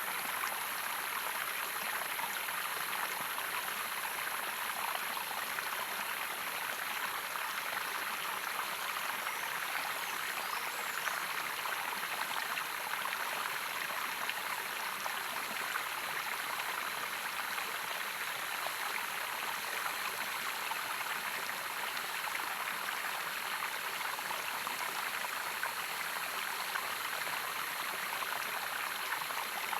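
Stream water running steadily, an even splashing rush with no pauses.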